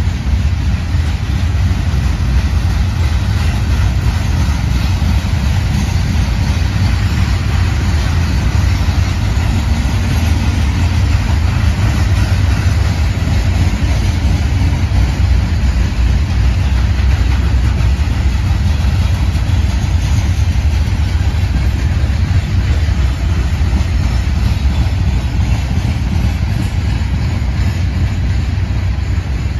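A train running: a steady, loud low rumble that does not change, with no horn or bell.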